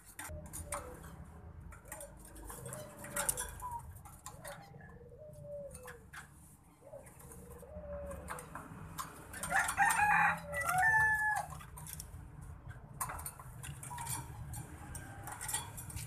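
Birds calling: a run of short arched clucking calls about a second apart, then a louder burst of calls about ten seconds in. Under the calls, a wire bird cage rattles and clinks as a white-breasted waterhen is caught in it by hand.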